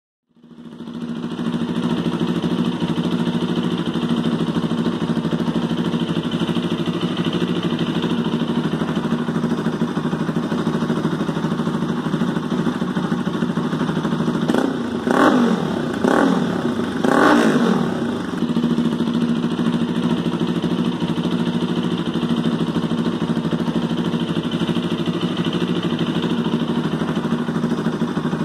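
Bajaj Pulsar RS 200's single-cylinder engine running through an aftermarket exhaust. It idles steadily, and about halfway through it is revved three times in quick succession.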